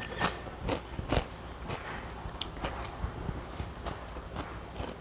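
Close-miked crunchy chewing of yeolmu (young radish) kimchi, a crisp crunch with each bite. The crunches are loudest in the first second or so and come fainter and more scattered after.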